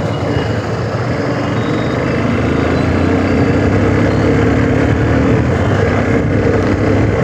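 Motorcycle engine running while being ridden, with road and wind noise. The engine note rises slightly from about two seconds in as it picks up speed.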